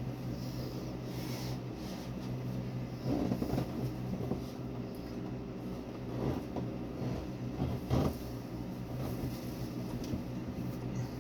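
A steady low machine-like hum, with a few short rubbing and handling noises about three, six and eight seconds in.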